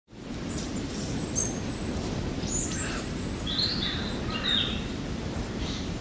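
Wild birds calling, a scatter of high thin calls and short whistled phrases, over a steady low rumble of background noise.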